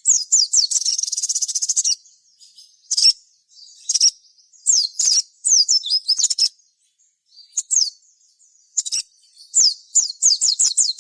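Crimson sunbird (sogon) singing: quick, sharp, high-pitched notes that slide downward, in repeated groups, with a fast buzzy trill in the first couple of seconds.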